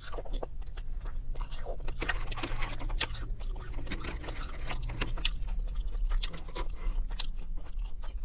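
Close-up eating sounds: wet chewing of McDonald's chicken nuggets and fries, with many small mouth clicks and smacks and a finger being licked. There is a brief scrape and rustle as fries are picked up from the plate.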